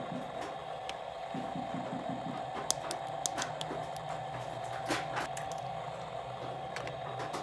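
Small plastic toy pieces being handled and fitted together: scattered light clicks and taps, a few sharper ones in the middle, over a steady background hum.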